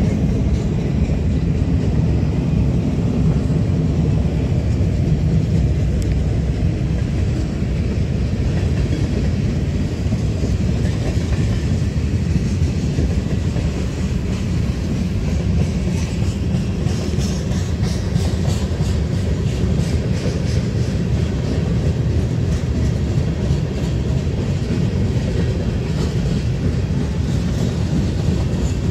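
Cars of a mixed freight train rolling past on the rails: a steady low rumble of wheels on track, with faint clicking of wheels over rail joints in the middle stretch.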